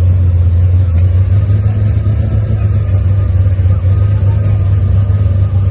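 Steady low drone of a running car, even in level throughout.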